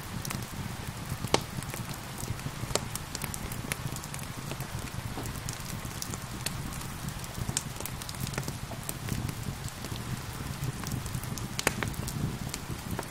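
Steady rain mixed with a crackling wood fire: a continuous hiss and low rumble, with frequent sharp, irregular pops and snaps from the fire.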